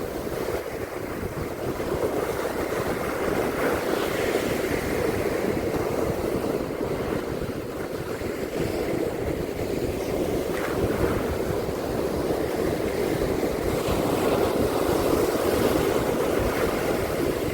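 Ocean surf washing on a beach: a steady rushing noise that swells and eases slowly, with wind rumbling on the microphone.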